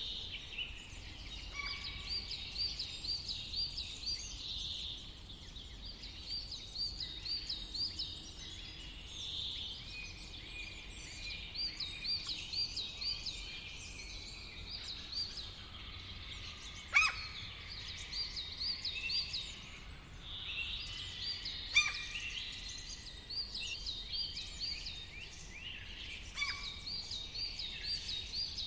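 Several woodland birds singing in a summer forest. One bird repeats a short phrase of quick rising notes every few seconds while others chirp around it, and two sharp, louder calls stand out about two-thirds of the way through. A low, steady rumble runs underneath.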